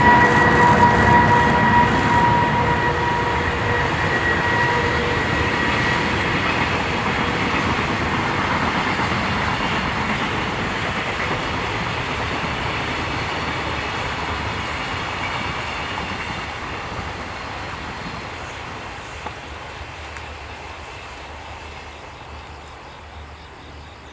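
A train running past on the line and then fading into the distance, its wheel and rail noise dying away slowly. A steady tone fades out in the first few seconds.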